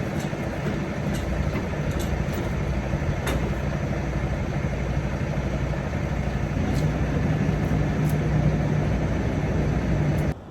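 Semi-truck's engine running, a steady low hum with a few faint clicks.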